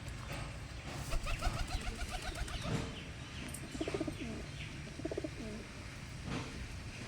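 Birds calling: a quick run of short chirping notes starting about a second in, then two short, lower, wavering calls.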